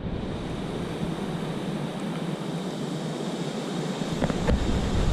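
Steady rush of a waterfall: an even wash of water noise, with a low rumble of wind on the microphone coming in about four seconds in.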